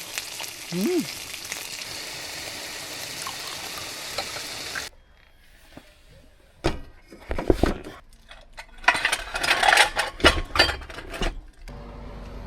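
Food sizzling and frying in a pan, cutting off about five seconds in. After the cut come irregular clicks and knocks, the clatter of utensils and dishes.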